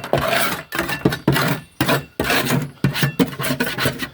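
Irregular knocks, clinks and short scrapes of hand tools working on bare car bodywork while sound deadening and debris are cleared from the floor.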